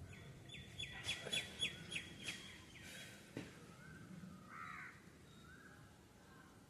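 Birds calling: a quick run of about eight short, repeated chirps in the first few seconds, followed by a few softer scattered calls.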